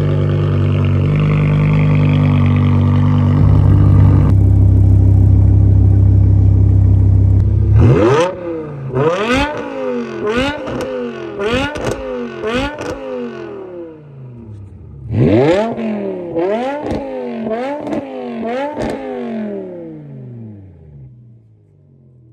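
BMW M5 E60's S85 V10 with a straight-through, muffler-delete exhaust, blipped repeatedly in neutral: two runs of quick revs, about one a second, each rising and falling sharply in pitch, fading out near the end. For the first eight or so seconds a loud steady drone shifts in pitch in steps.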